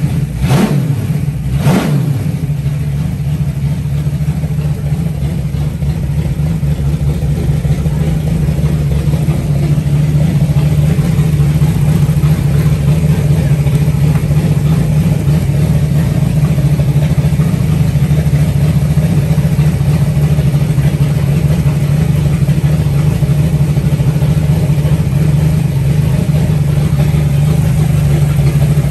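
360 stroker V8 running on its first start-up. Two short bursts of revving in the first couple of seconds, then it settles into a steady idle that gets a little louder partway through.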